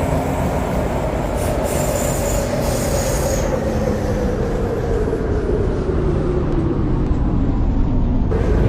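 MTR C-Train electric metro train slowing down, with the motor whine falling gradually in pitch over the steady running noise of the wheels on the rails. The sound cuts off abruptly near the end.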